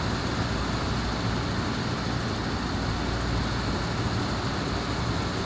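Steady low rumble with a hiss from running machinery, unchanging throughout.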